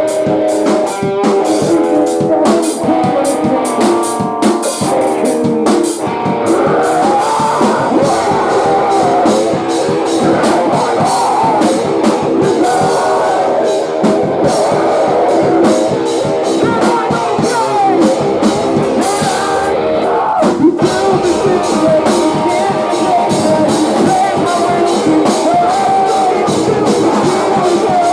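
Live post-hardcore band playing loudly: distorted guitars, keyboard and a pounding drum kit, with vocals.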